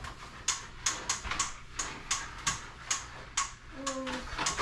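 Regular, sharp plastic clicking, about three clicks a second, from the Monster Jam ThunderROARus Drop toy tower as a child works its mechanism.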